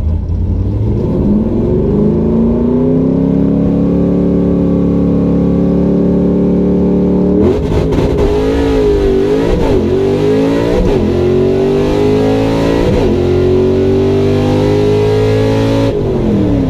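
Carbureted Ford 5.0 V8 with open door-dumped exhaust revving up and holding a steady rpm for several seconds, then pulling hard under acceleration with sharp drops in pitch at gear changes through the manual gearbox. Near the end the throttle comes off and the revs fall.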